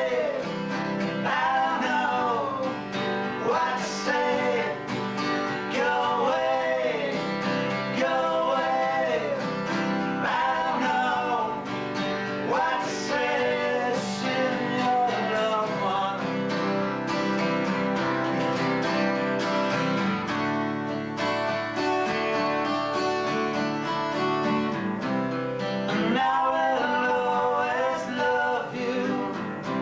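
Acoustic guitar music played live, steady chords with a melody line above them that bends and slides in pitch, recorded through a basic VHS camcorder microphone.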